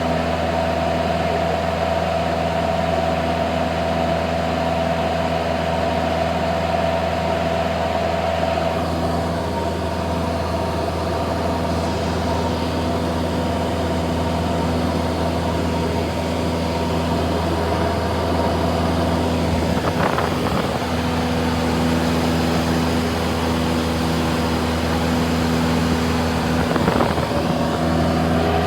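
Cessna 172's piston engine and propeller droning steadily, heard from inside the cabin, its pitch shifting slightly once about a third of the way in.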